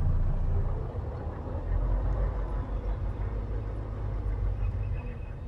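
Semi-truck's diesel engine running with a steady low rumble, heard from inside the cab while the rig moves slowly.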